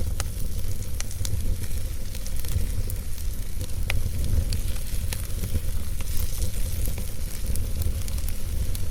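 Fireplace fire burning: a steady low rumble under a light hiss, with scattered sharp crackles and pops, one of the strongest about four seconds in.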